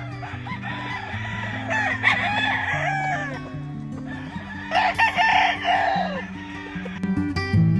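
Gamefowl roosters crowing: two long crows, about three seconds apart, over background music.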